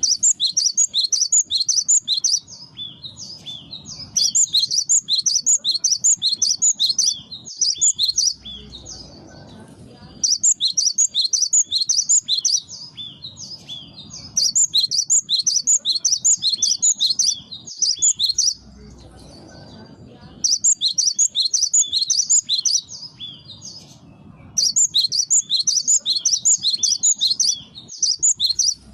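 Cinereous tit (gelatik batu) singing: loud, rapid runs of high repeated notes in bouts of two to three seconds, with short pauses between bouts.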